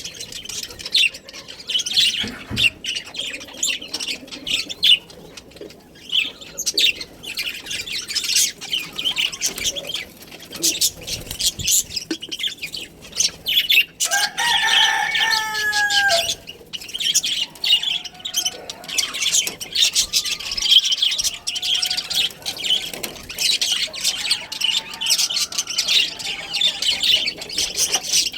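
Budgerigars chattering and chirping continuously in rapid, overlapping warbles. About halfway through, a longer call of about two seconds, with several pitched layers falling slightly, stands out above the chatter.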